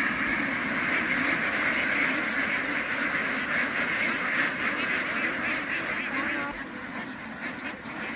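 A large flock of farm ducks quacking all together in a dense, continuous din, easing a little about two-thirds of the way through.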